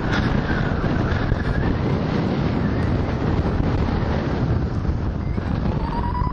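Strong wind rushing steadily over a hang glider's GoPro microphone just after launch, with a faint whistling tone rising and then falling near the end.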